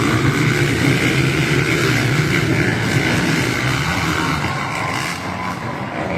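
Dirt bike engines racing together, a dense continuous din of revving motors that eases a little after about five seconds.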